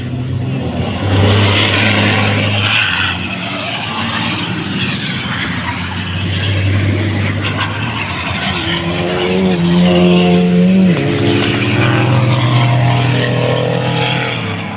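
Racing trucks' engines running hard on the track, the engine note holding steady and then jumping in pitch, with a sharp drop about eleven seconds in.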